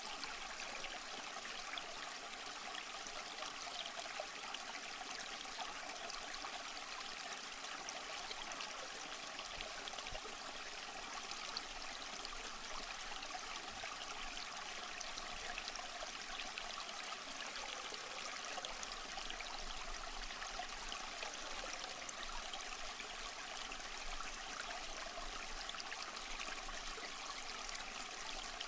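Small stream flowing and trickling over rocks, a steady babble of splashing water.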